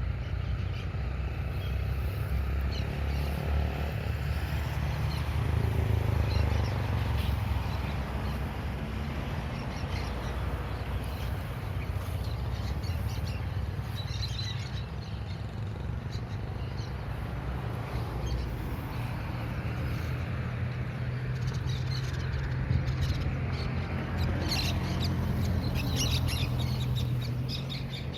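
Small birds chirping on and off, with bursts of calls about halfway through and again near the end, over a steady low rumble.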